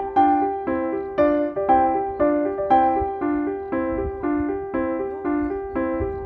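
Background piano music: a gentle repeating pattern of notes, about four a second, alternating between low and higher notes.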